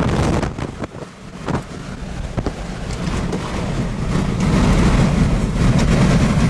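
Hard wind buffeting the microphone: a low, noisy rumble that eases off about a second in, then builds back up and stays loud.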